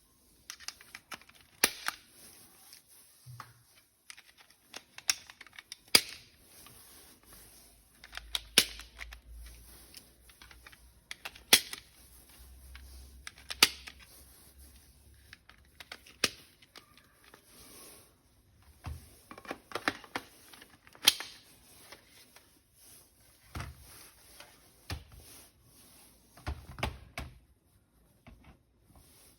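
Irregular sharp clicks and taps of hard plastic toy parts being handled and snapped together, a few much louder than the rest.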